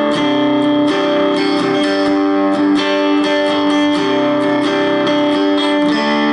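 Electric guitar played through a tube preamp into a 1-watt Palmer amplifier, strumming repeated, sustained chords at low volume with a fuller tube tone.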